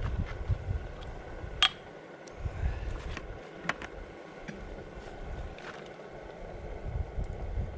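McDonald PB two-stroke diesel engine running slowly and unevenly, its low beats coming in irregular groups with short gaps. A few sharp metallic clicks are heard, the loudest about a second and a half in.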